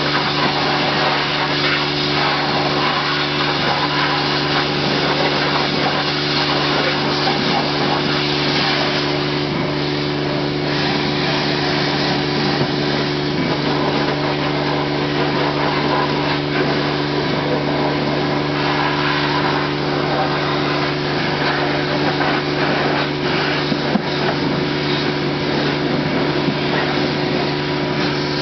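Automatic car wash machinery running: a steady motor hum with an even rushing noise over it, unchanging throughout.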